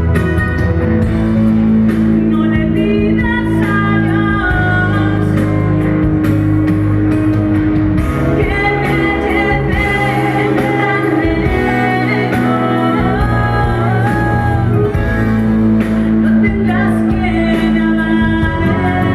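A song played with a woman singing the melody over a backing of guitar and steady bass chords.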